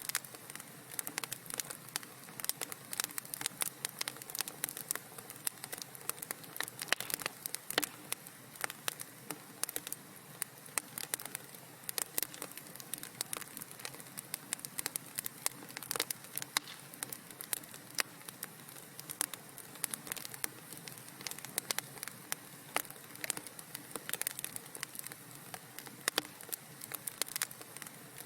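Wood fire crackling in a fireplace: many small, irregular pops and snaps over a soft, steady hiss.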